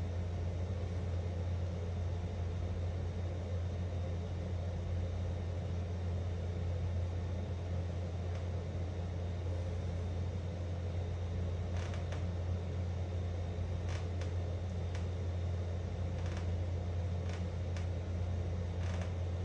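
Steady low mechanical hum with an even hiss over it, like a fan or air-handling unit running. A few faint clicks come in the second half.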